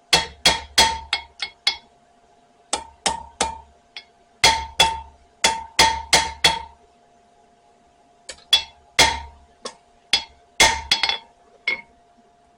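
Hammer blows on a spring-steel knife blade on the anvil, straightening it: four quick runs of sharp, ringing strikes with short pauses between them.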